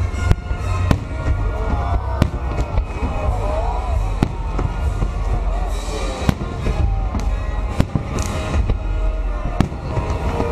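Fireworks show: shells bursting in sharp bangs about every one to two seconds, over a constant low rumble.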